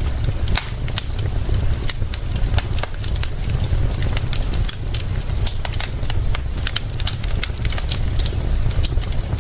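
Wood fire crackling with frequent sharp pops, layered over a steady hiss of rain and a constant deep rumble.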